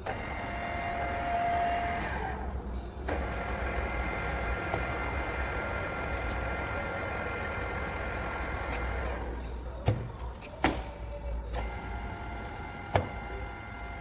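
Radial drilling machine running: the motor and gearbox give a steady whine with several tones, which changes pitch about three seconds in and again near the end. Three sharp knocks come in the second half.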